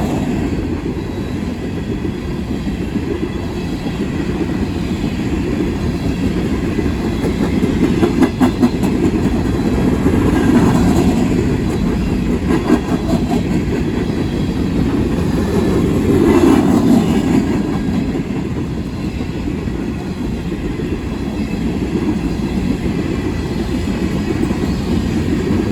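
Coal train's cars rolling past, a steady heavy rumble with the clickety-clack of wheels over rail joints, swelling a couple of times and with a few sharp clicks.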